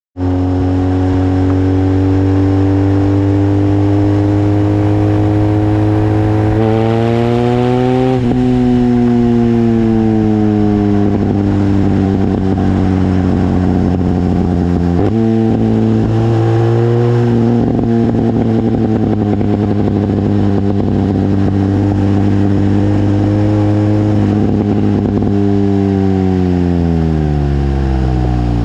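BMW R1200GS boxer twin running through a Leovince aftermarket exhaust with the dB-killer baffle removed. The engine speed rises and falls in slow sweeps, with a sudden step up about halfway through and a steady fall near the end.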